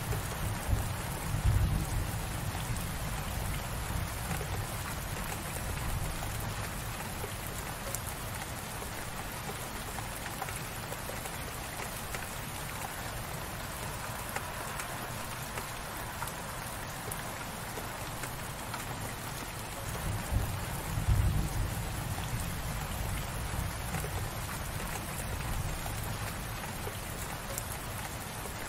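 Gentle, steady light rain: an even hiss of falling drops. A brief low rumble comes through twice, about two seconds in and again about twenty seconds in.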